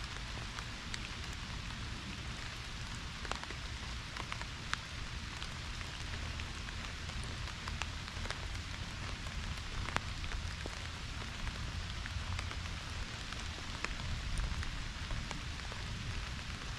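Pouring rain falling steadily, with many sharp ticks of single drops landing close by.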